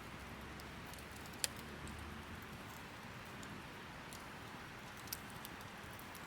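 Wood campfire crackling: a soft steady hiss with scattered sharp pops, the loudest about a second and a half in.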